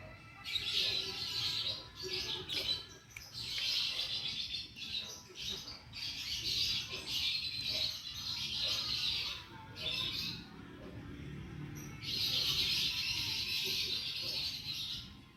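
Small birds chirping in dense, rapid chatter, in long stretches with short breaks.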